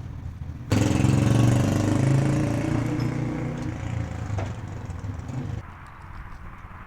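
A vehicle engine runs steadily and loudly, starting abruptly about a second in and cutting off suddenly about a second before the end.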